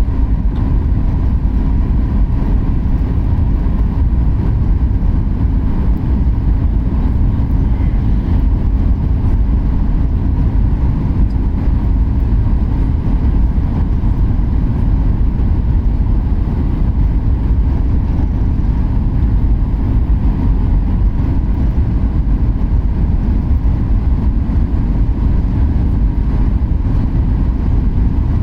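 Airliner cabin noise: a steady, unchanging rumble of jet engines and airflow heard from inside the cabin, with a faint steady hum.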